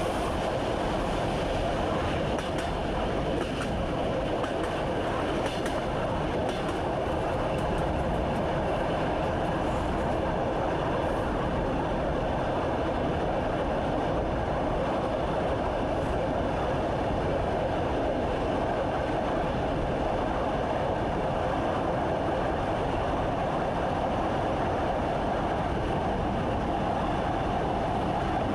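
Train running steadily along the track, heard from inside the driver's cab, with a few faint clicks in the first few seconds.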